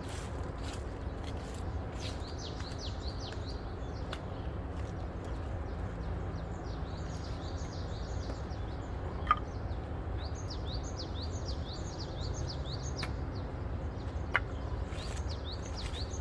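Small birds chirping in quick runs of short falling notes, over a steady low rumble, with two sharp clicks partway through.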